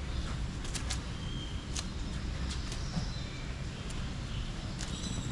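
Outdoor bird-park ambience: a steady low rumble like wind on the microphone, with scattered sharp clicks or taps and a few short, high bird chirps.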